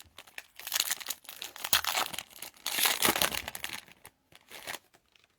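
Foil wrapper of a trading card pack being torn open and crinkled, in irregular rustling bursts over several seconds.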